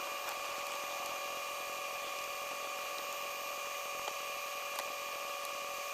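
Small electric drill spinning a sanding pad at a steady speed with an even motor whine, sanding a plastic headlight lens with 1,000-grit paper.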